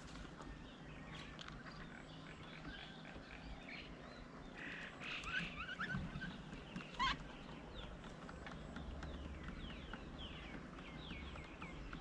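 Several small birds chirping and calling, with many short high notes. There is a louder cluster of calls about five seconds in, a single sharp call about seven seconds in, and a quick series of falling notes near the end.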